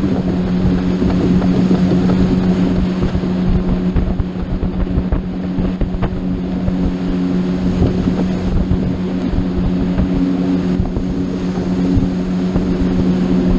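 Motorboat engine running steadily at cruising speed, a constant drone, with wind buffeting the microphone and water rushing past the hull.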